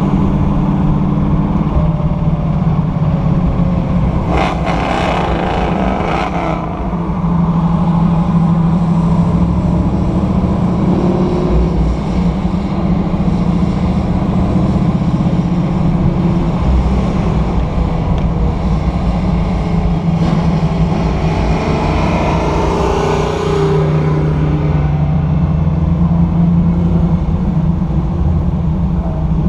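Sunbeam Tiger's Ford V8 engine running steadily at parade-lap speed, heard from inside the cabin, its pitch shifting a little as the throttle changes. A louder rushing noise swells briefly about four seconds in and again past the twenty-second mark.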